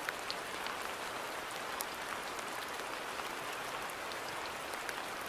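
Steady rain falling on a garden, an even hiss with many separate drops ticking sharply on leaves and surfaces.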